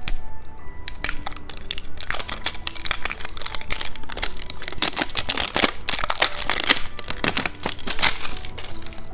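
Plastic candy packaging crinkling and crackling as it is handled and opened, a dense run of sharp crackles over soft background music.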